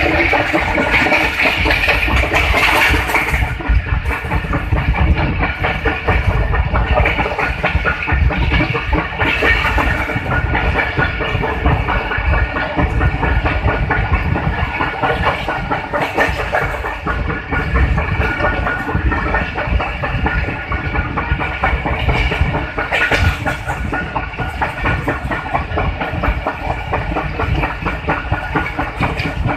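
Passenger train running along the track, heard from a coach window: the wheels clatter over the rail joints in an irregular clickety-clack, over a continuous rushing rumble with a steady hum beneath it.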